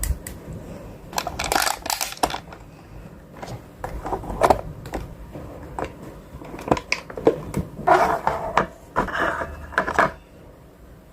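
Food packages and plastic containers being handled and set into a fridge: a run of clicks, clacks and knocks, with spells of crinkly rustling about a second in and again near the end.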